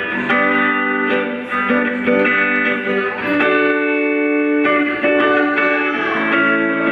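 Instrumental guitar music with long sustained notes, the chord changing every second or so.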